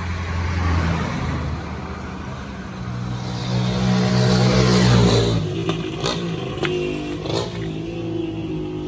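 A car engine running and revving, swelling to its loudest about four to five seconds in and then settling to a steadier note with a few sharp clicks.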